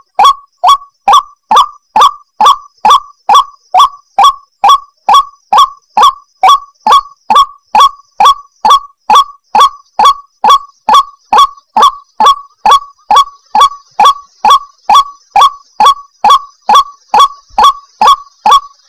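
White-breasted waterhen (ruak-ruak) calling: a short, harsh note repeated steadily at about two calls a second.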